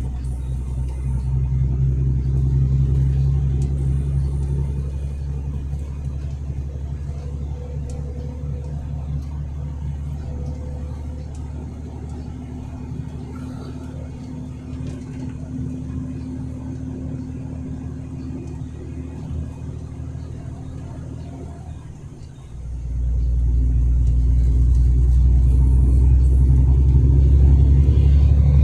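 Truck engine and road noise running steadily, heard from the moving cab. About three-quarters of the way through the sound dips for a moment, then the low drone comes back clearly louder, as if the engine is pulling harder.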